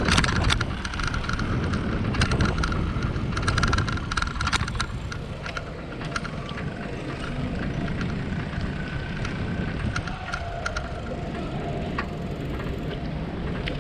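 Bicycle riding along, heard through a handlebar or body-mounted action camera: a steady low rumble of wind and road on the microphone, with frequent sharp clicks and rattles, thickest in the first few seconds.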